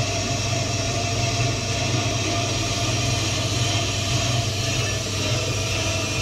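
Ammco 4000 brake lathe running steadily as it skims a front brake rotor: a constant motor hum with steady tones and the hiss of the tool cutting.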